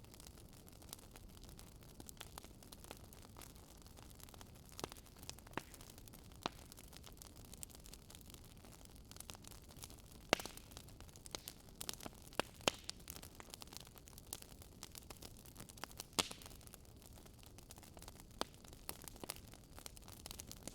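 Fireplace fire crackling faintly over a steady low hiss, with irregular pops and snaps, a few louder ones in the middle.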